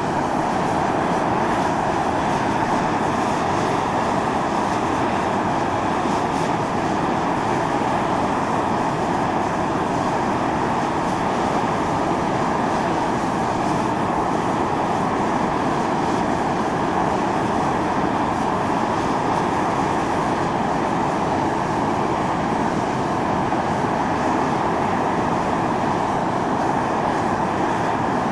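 Volcanic fumarole venting steam: a continuous, even rushing hiss with no breaks or changes in strength.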